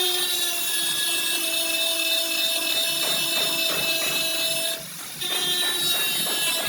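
Power tool running with a steady whine over a rough grinding noise, dropping out briefly about five seconds in.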